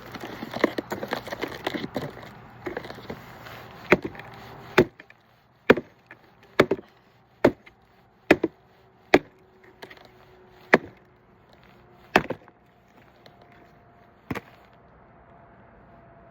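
Wood being split with chopping blows: a flurry of quick cracks and splintering at first, then about ten sharp single chops, close to one a second, that space out near the end.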